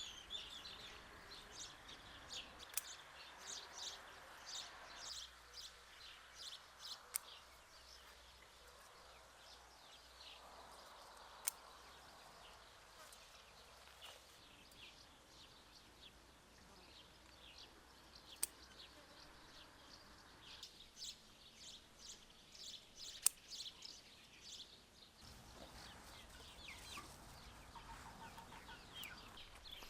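Faint outdoor birds chirping over and over in quick short calls, with a few sharp clicks scattered through.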